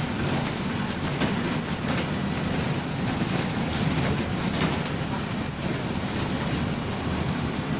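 Running noise of a bus heard from on board as it drives: a steady rumble with a thin, high, steady whine over it and a few brief rattles, the strongest about four and a half seconds in.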